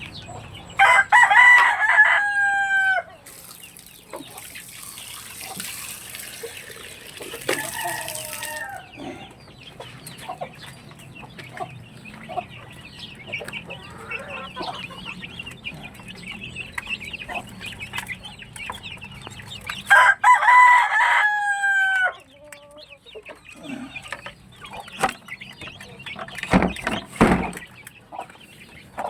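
Rooster crowing twice, once about a second in and again about twenty seconds in, with hens clucking in between. A few dull knocks come near the end.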